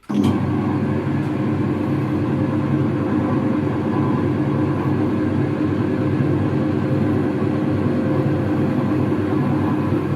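Metal-working lathe running steadily, its motor and gearing giving a constant hum with several steady tones, as it turns a bar for centre drilling.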